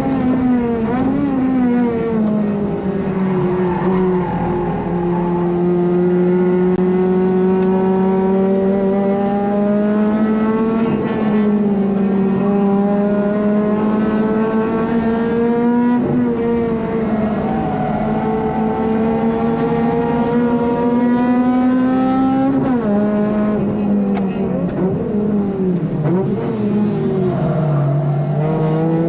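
Honda Civic FD2's four-cylinder engine at high revs, heard from inside the car while lapping a circuit. The revs climb slowly through long pulls and drop briefly at a few points, with a deeper dip near the end before climbing again.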